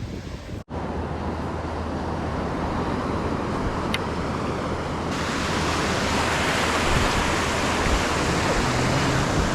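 Ocean surf washing onto the beach, a steady rush of noise with wind on the microphone, growing brighter and a little louder about halfway through. The sound drops out for an instant about half a second in.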